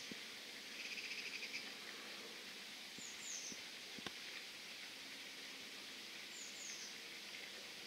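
Small birds calling faintly: a short, high, falling double chirp about every three seconds, and a brief rapid chattering trill about a second in. A single faint click comes about four seconds in.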